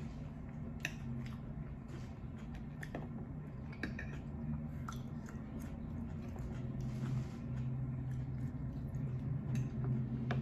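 Close-up chewing and mouth sounds from someone eating, with scattered short clicks of a metal fork against the plate, over a steady low hum.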